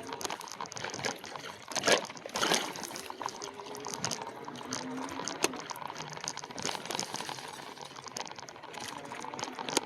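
E-bike riding along an unpaved trail: steady rolling tyre and rattle noise with scattered clicks, and sharper knocks about two seconds in, again just after, and near the middle.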